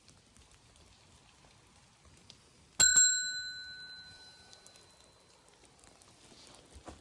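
A single bright metallic ding, like a small bell, struck about a third of the way in and ringing out over about two seconds, over a faint patter of rain.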